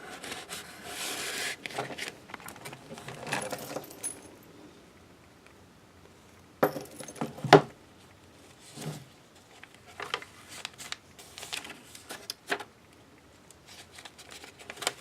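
Pages of a handmade mixed-media paper journal being turned and handled: paper rustling for the first few seconds, then scattered sharp taps and clicks, the loudest a little past the middle.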